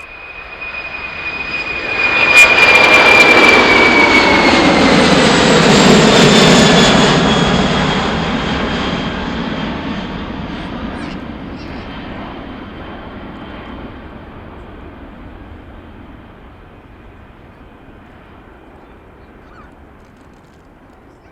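Jet airliner passing close by: a high engine whine that drops in pitch as it goes past, loudest for a few seconds, then a rumble that fades away slowly.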